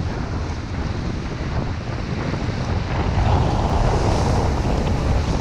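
Strong wind buffeting the microphone: a loud, steady rushing with a deep rumble, swelling slightly about three seconds in.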